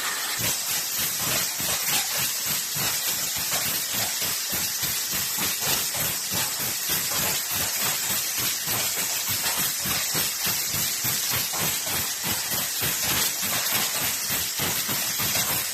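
Aerosol can production line machinery running: a steady, loud hiss with a rapid, even pulsing of several beats a second.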